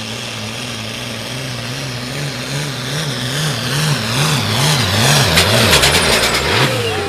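Farm tractor's diesel engine pulling under full load in a tractor-pull run. Its pitch wavers up and down about once a second, it grows louder through the middle, and the engine note cuts off suddenly near the end.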